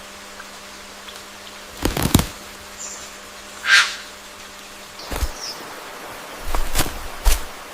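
Bird sounds: several short bursts of flapping, with two brief high chirps and one harsher noisy call in between. A faint steady hum runs underneath until about two-thirds of the way through.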